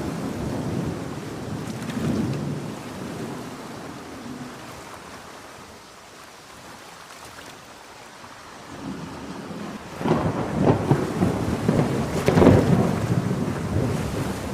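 Thunderstorm with steady heavy rain. A low roll of thunder fades to a lull, then about ten seconds in a nearer thunderclap breaks into a crackling, rumbling peal that is loudest near the end.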